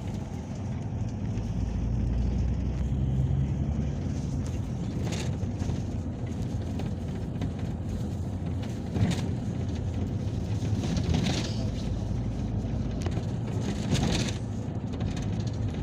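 Peugeot Boxer minibus driving, heard from inside the passenger cabin: a steady low engine and road rumble, with a few short knocks or rattles from the body at intervals.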